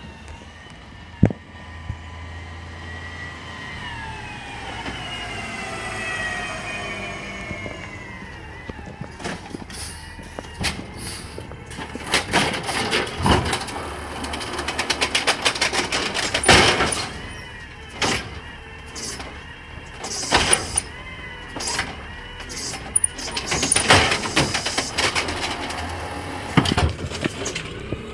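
A vehicle going by, its whine falling in pitch over several seconds, followed by a long stretch of irregular clattering and banging.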